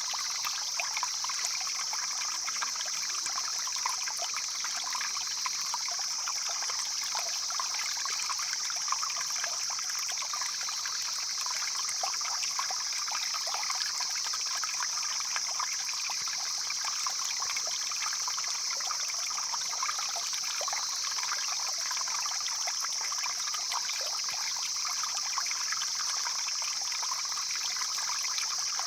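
A stream flowing steadily, a continuous trickling and rushing of water, with a steady high-pitched hiss sitting above it.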